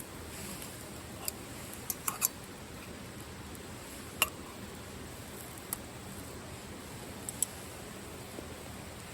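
Steady hiss of rain and river water, with a few sharp clicks scattered through: a quick cluster about two seconds in, the loudest single click a little after four seconds, and a pair near the end.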